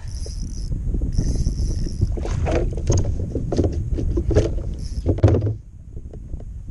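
Water and wind noise around a sea kayak, with a brief high hiss twice in the first two seconds. From about two seconds in until past five seconds there is a run of knocks and splashes, then it settles back to a low rumble.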